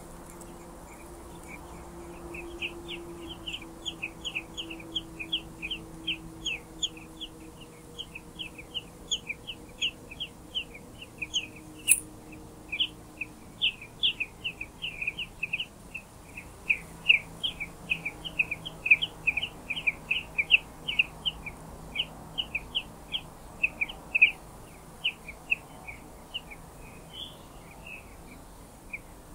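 Eurasian blackbird nestlings begging: a rapid series of short, high chirps, about four a second.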